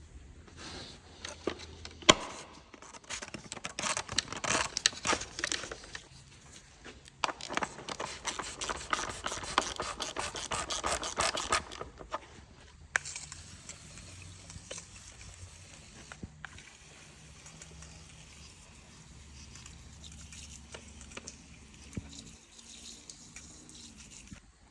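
A ratchet wrench clicking in two long rapid runs, then a few scattered clicks, as bolts are worked loose under the bonnet.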